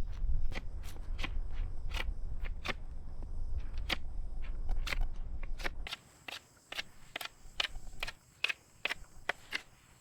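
Knife whittling a green sapling: short, quick shaving strokes, about two or three a second, as the point is carved. A low rumble sits underneath and stops about six seconds in.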